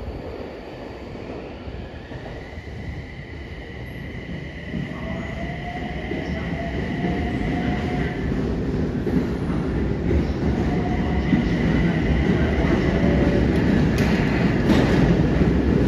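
Electric train running in a subway tunnel: a heavy rumble that grows steadily louder, with a high, steady wheel squeal over it and a fainter lower whine in the middle.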